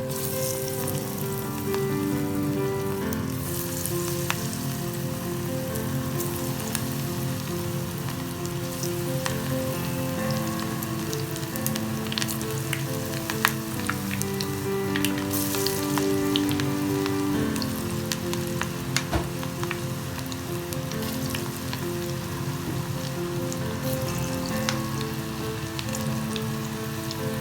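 Batter-coated cauliflower pieces (gobi 65) deep-frying in hot oil: a steady sizzle with frequent small crackles and pops, over soft background music.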